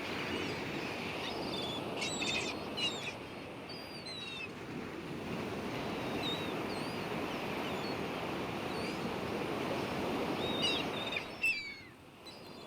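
Surf washing on a beach with seagulls calling over it, the calls coming in a cluster about two seconds in and again near the end. The surf drops away briefly near the end.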